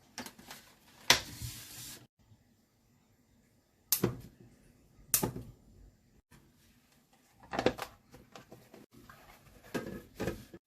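Several sharp knocks and clatters of objects being handled and set down, with a short rustle about a second in.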